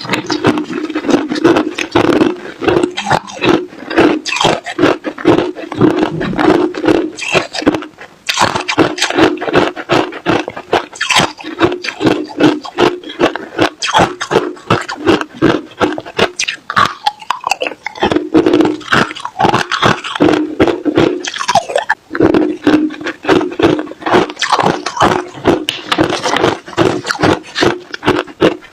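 Crushed ice being chewed close to the microphone: rapid, loud crunches several times a second, with a few brief pauses between mouthfuls.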